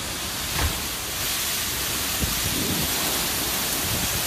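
Storm noise of strong wind and heavy rain: a dense, steady hiss over low rumbling gusts, growing a little louder about a second in.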